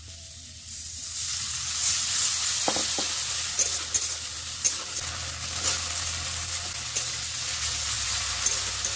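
Onion and chilli masala frying in hot oil in a metal kadai, sizzling, while a metal spatula stirs it, scraping and knocking against the pan. The sizzle comes up about a second in.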